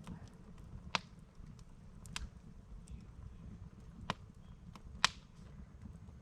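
Campfire of burning firewood crackling, with sharp, irregular pops, the loudest about a second in and again near five seconds, over a low steady rumble.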